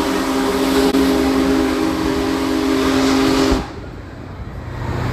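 Union Pacific Big Boy 4014's steam whistle blowing one long, steady chord over the rumble of the passing train, cutting off abruptly about three and a half seconds in. The train's lower rumble carries on after it.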